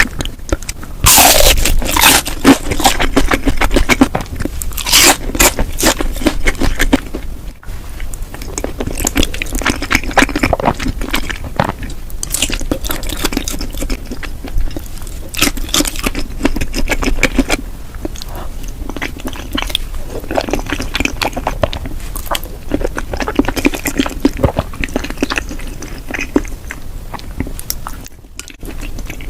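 Close-miked mukbang eating of cheesy rose tteokbokki: steady chewing and biting with many sharp, crackly clicks. It is loudest over the first several seconds and a little softer after that.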